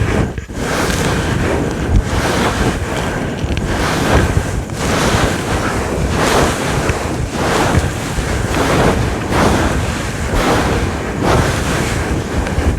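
Fingers scratching hard and fast on a fluffy furry microphone windscreen, a loud, rough rushing that surges in repeated strokes about once or twice a second.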